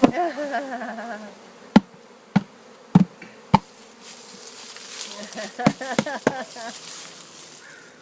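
Honeybees from a swarm being hived buzzing close by, the buzz wavering in pitch as individual bees fly past, strongest at the start and again about five to six seconds in. Several sharp knocks or taps sound through it.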